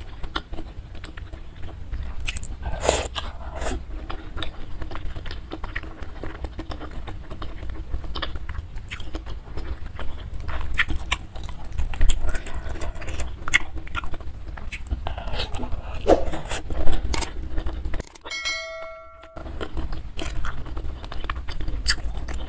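Close-miked biting and chewing of thick stewed cow skin, made up of many short wet smacks and clicks. The sound briefly cuts out about eighteen seconds in.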